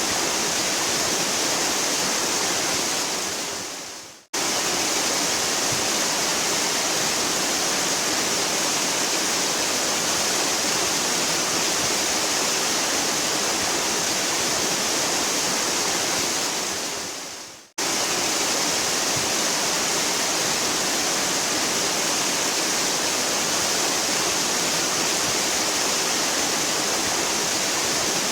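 Waterfall pouring in a steady, dense rush of falling water. It fades away twice, about four seconds in and again about eighteen seconds in, then comes straight back at full strength.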